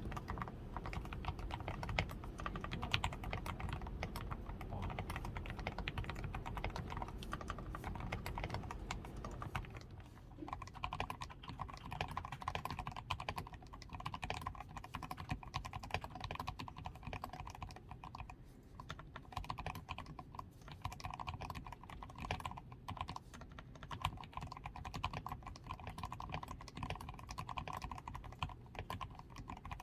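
Continuous typing on a DAREU A87 Pro mechanical keyboard: dense, rapid key strokes. Its switches are fully lubed with Krytox 105, its PCB is tape-modded and its stabilizers are lubed, under XDA keycaps.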